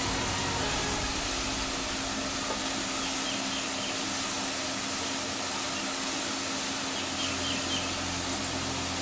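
Sliced mushrooms sizzling in olive oil in a stainless sauté pan, a steady frying hiss, with a few faint bird chirps twice.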